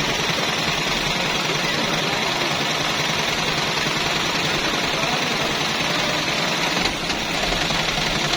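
Toyota Aqua hybrid's 1.5-litre four-cylinder petrol engine running with a rapid rattling knock, the "kad kad" noise the owner hears at start-up, as if something inside the engine were broken. The car is logging a cylinder-3 misfire code.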